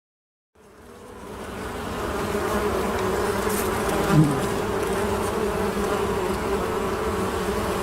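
Honey bees buzzing. The buzz fades in after a brief silence and then holds steady, and about four seconds in a single bee passes close, louder for a moment and sliding in pitch.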